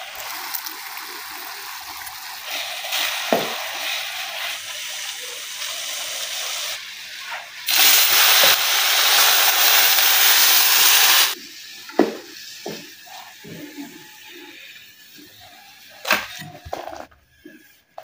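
Cooking on a gas stove: tomato-onion masala sizzling in a frying pan. About eight seconds in a much louder steady hiss starts, from a roti cooking on a griddle with steam coming off it, and it cuts off about three seconds later. After that come quieter pan sounds with a few sharp clinks as tea boils in a pot.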